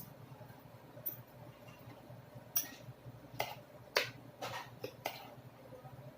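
Utensils clinking against a plate or bowl during a meal: about six sharp, irregular clinks, the loudest about four seconds in.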